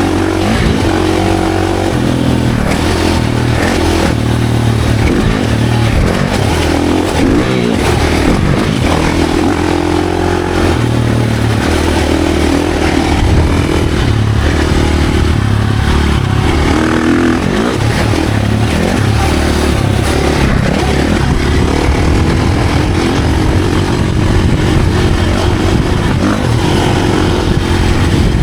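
Dirt bike engine revving hard on a trail ride, its note rising and falling again and again as the throttle is worked, over a constant rushing noise.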